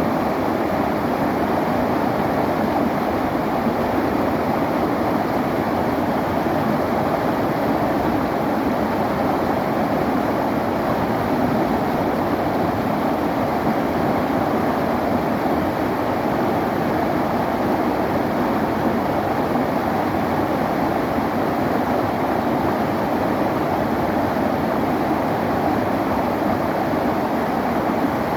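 River water flowing over a streambed: a steady, even rush of water that does not change.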